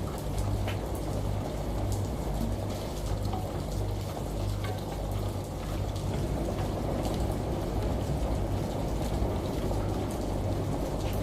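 Steady rush of running water over a low, pulsing washing-machine hum, with scattered light drips.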